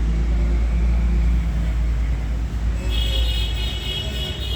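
Steady low rumble of a motor vehicle, with a high-pitched, pulsing tone joining about three seconds in.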